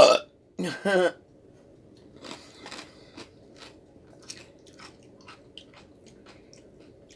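Close-up chewing of crunchy fried strips eaten in egg drop soup: a run of crisp crunches, about three a second. A short vocal hum comes about a second in.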